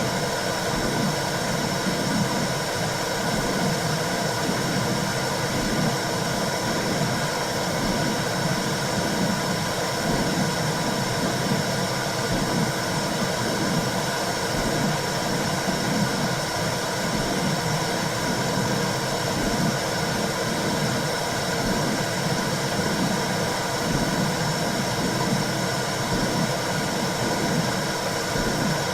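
Womb sound for soothing a baby: a steady hiss of white noise over a low whooshing that swells and fades in a slow rhythm.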